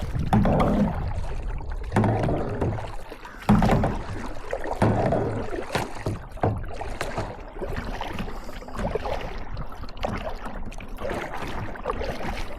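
Kayak paddle strokes in lake water, a stroke about every second and a half in the first half, then quieter.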